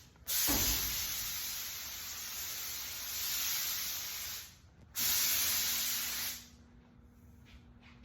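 Two long hissing blasts of a pressurised spray. The first lasts about four seconds and fades off. The second starts half a second later, lasts about a second and a half and cuts off sharply.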